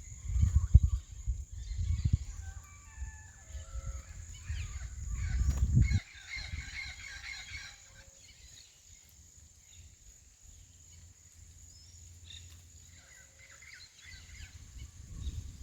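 Birds calling outdoors: short whistled songbird notes and a harsher call about six seconds in, over wind rumble on the microphone for the first six seconds and a steady high hiss.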